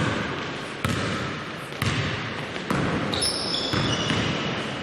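A basketball being dribbled on a hall floor, bouncing steadily about once a second, four bounces, with high short squeaks, like sneakers on the court, joining in over the second half.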